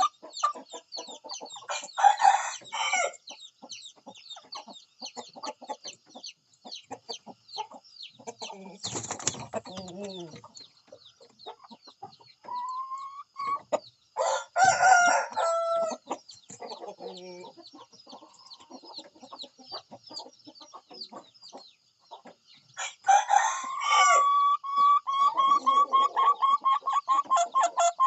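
Roosters crowing several times among clucking chickens, with a steady patter of short calls between the crows.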